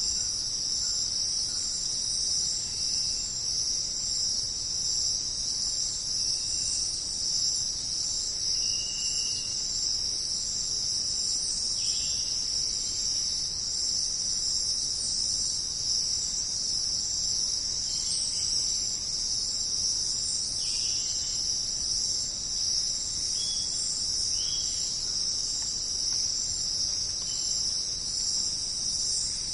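Dense jungle insect chorus: a steady, high-pitched shrill drone that does not let up, with a few faint short chirps scattered through it. No thunder is heard.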